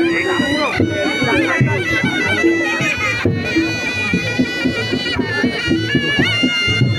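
Reog Ponorogo gamelan music: a slompret, the shrill double-reed shawm, plays a wavering melody over drums and short repeated gong-chime notes. A low gong tone comes in near the end.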